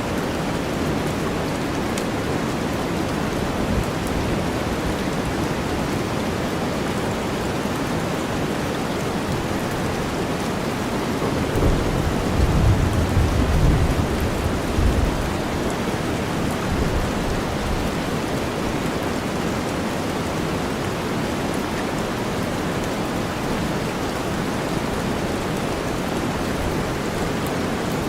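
Steady heavy rain with a deep white-noise bed, and a low roll of thunder from about 12 to 15 seconds in.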